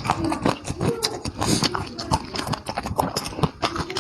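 Close-up eating noises: wet chewing and lip-smacking, in a quick irregular run of sharp smacks and clicks.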